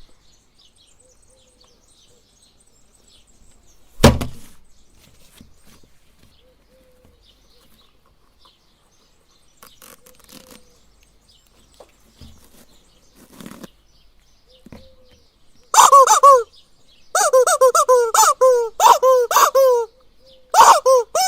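A loud thump about four seconds in. Near the end, a rubber chicken squawks in a rapid run of short, loud squeals that bend up and down in pitch, several a second, as it is squeezed.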